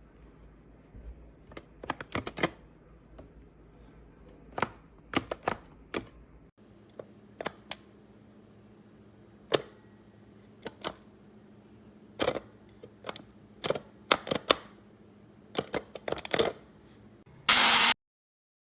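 Irregular plastic clicks and knocks from a cordless electric coffee grinder being handled, with no motor starting: the grinder won't turn on despite a full charge. Near the end a brief loud rush of noise, then the sound cuts off suddenly.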